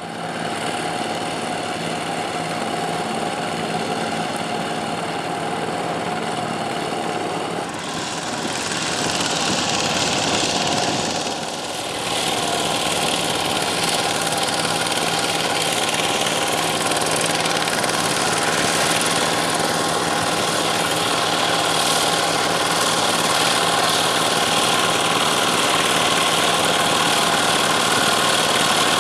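Tractor diesel engine running steadily, with a brief change in tone about a third of the way in, then running a little louder.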